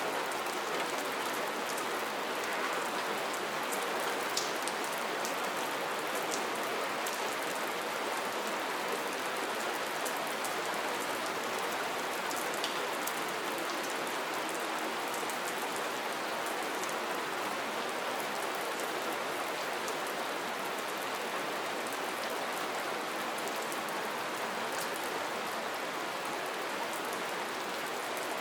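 Steady soft rain falling, an even hiss with many fine drop ticks, no thunder or change in intensity.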